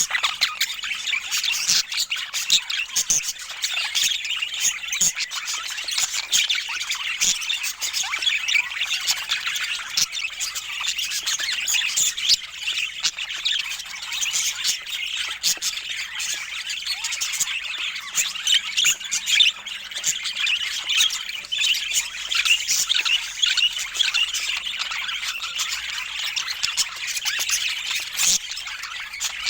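Budgerigars chattering and squawking: a continuous, busy stream of short, high chirps and calls.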